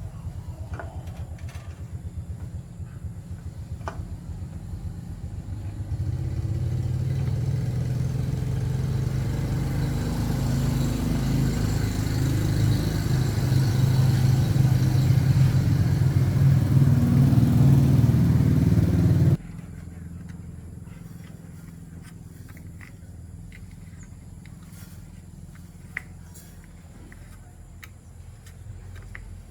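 A motor running with a low, rapidly pulsing hum that grows louder about six seconds in, then stops abruptly about nineteen seconds in, leaving only faint clicks.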